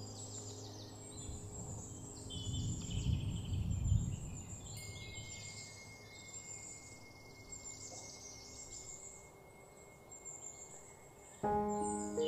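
Birds chirping and singing over a garden ambience, with a steady high whine from about five seconds in and a brief low rumble around three seconds. Music comes back in near the end.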